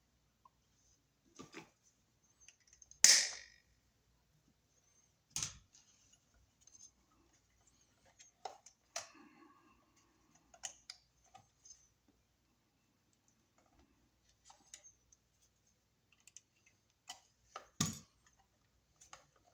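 Scattered clicks, taps and light knocks of hand work on a wall receptacle while the bare ground wire is bent into place and fastened. One sharp knock about three seconds in and another near the end stand out, with a short scrape around the middle.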